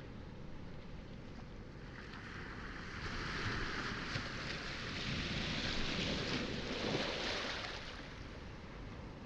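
A wave breaking and washing up a pebble shore, swelling about two seconds in, loudest near the end, then drawing back.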